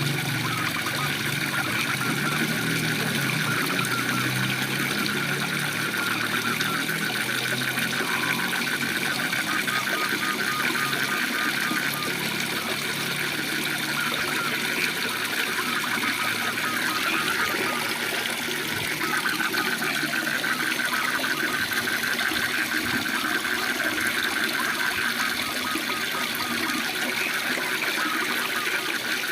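Waterfall rushing steadily, with a chorus of frogs trilling in a fast, even pulse.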